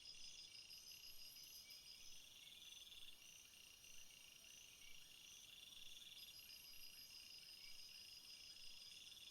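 A faint chorus of crickets and other field insects: steady high trills, with a lower pulsing trill that comes and goes in phrases of a second or two.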